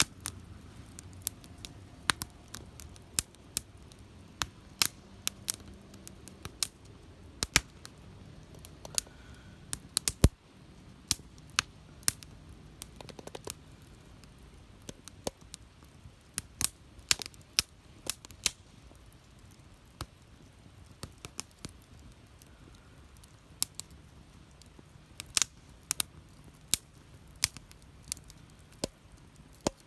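Wood fire crackling: sharp, irregular pops and snaps, a few a second and uneven in loudness, over a low steady hiss of burning.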